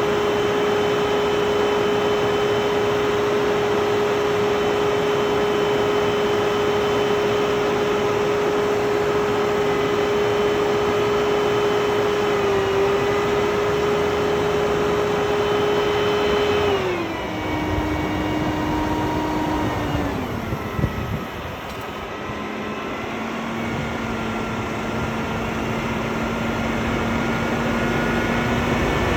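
A steady machine hum with a clear whine. The whine holds one pitch, drops in a step about 17 seconds in and again about 20 seconds in, then slowly climbs back up toward the end.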